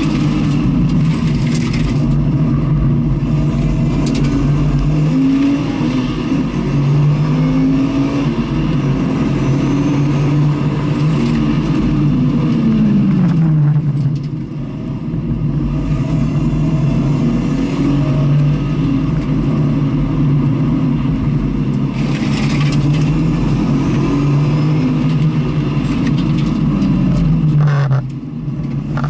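Racing vehicle's engine heard onboard during a circuit lap: the note climbs in steps through upshifts under hard acceleration, then twice falls away in a long downward glide as the vehicle slows for corners. The engine runs over a steady rush of wind and road noise.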